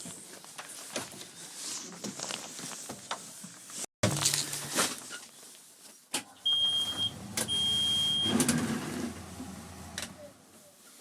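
Clicks and clunks of handling in the backhoe, then two short steady high-pitched beeps about a second apart over a low hum: the machine's warning beeps and electrics with the key switched on, before the cold start.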